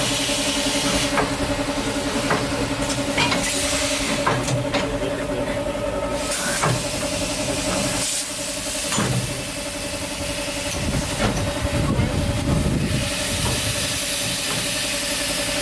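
Narrow-gauge steam locomotive with its train: steam hissing in surges, with scattered sharp clicks and knocks, over a steady hum.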